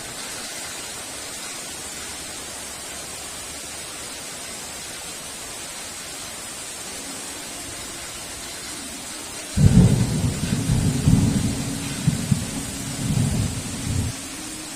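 Steady hiss of heavy rain. About two-thirds of the way through, a sudden loud clap of thunder rumbles for about four seconds, then stops abruptly.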